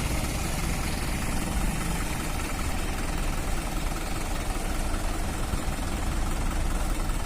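Tractor diesel engine running steadily at low revs, a constant low rumble.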